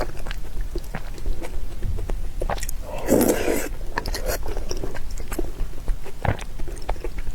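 Close-miked eating: wet chewing with many short mouth clicks and smacks, and one louder bite or slurp about three seconds in.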